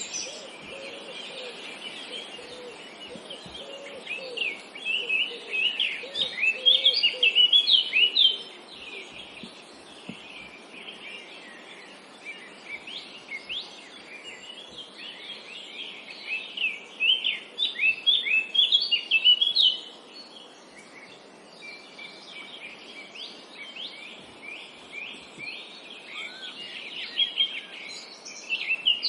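Several songbirds chirping and singing in a forest, with quick high chirps coming in busy flurries and quieter stretches between. A series of lower calls runs through the first several seconds, over a steady background hiss.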